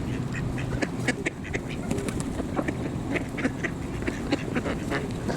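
A group of ducks quacking, many short calls overlapping one another.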